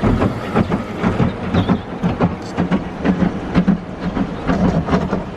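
Rinse water from a tunnel car wash arch spraying onto the car, heard from inside the cabin: an irregular pattering and knocking of water on the body and glass, over a steady low hum of the wash equipment.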